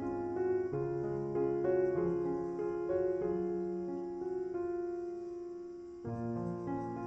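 Background piano music: a slow, gentle melody, with a new phrase beginning about six seconds in.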